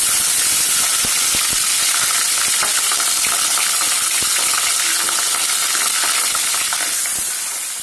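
Hilsa fish head frying in hot mustard oil in a wok: a loud, steady sizzle full of fine crackles, easing off slightly near the end.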